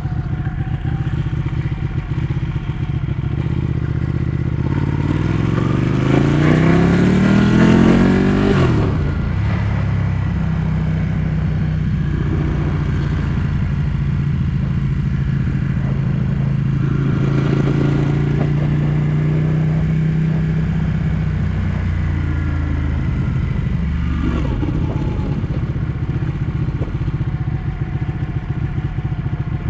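Ducati 1199 S Panigale's L-twin engine heard from the rider's seat while riding. About five seconds in it accelerates hard, the pitch climbing for a few seconds before it drops away. It then holds steady, and the revs drop again a little after twenty seconds.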